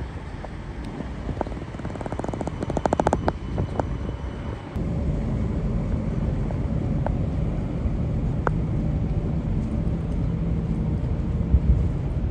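Train running with a low rumble, a quick run of clicks about two seconds in, then a steadier, louder hum from about five seconds in.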